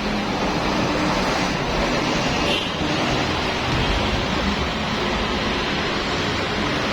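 Petrol-engine pressure washer running, with the steady hiss of its water spray and a low engine hum beneath.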